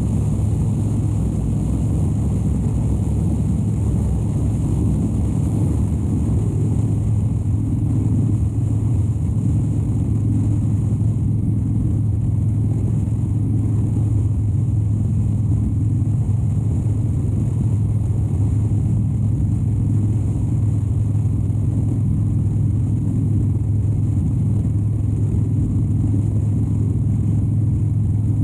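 2013 Harley-Davidson Dyna Wide Glide's 103 cubic inch air-cooled V-twin running steadily at an even engine speed while cruising, heard from a camera mounted on the bike. The low engine note holds level throughout.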